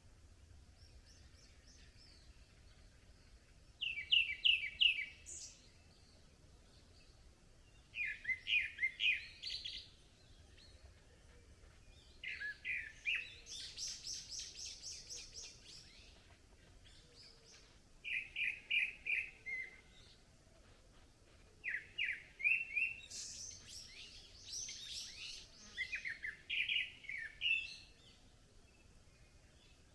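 Small forest songbirds singing: several phrases of quick, repeated chirping notes, each lasting one to two seconds and coming every few seconds, with a higher, thinner trill overlapping some of them.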